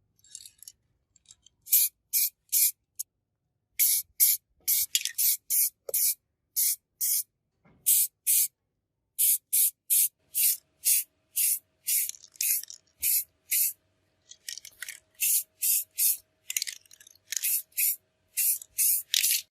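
Aerosol spray can spraying paint in many short, quick bursts with brief pauses between, as when building up light coats on a small model car body.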